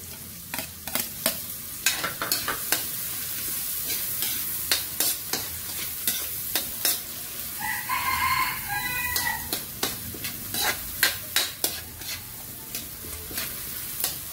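Diced white onion sizzling in hot oil and butter in a wok, with a spatula scraping and clicking against the metal pan as it is stirred. About halfway through, a rooster crows once for about two seconds.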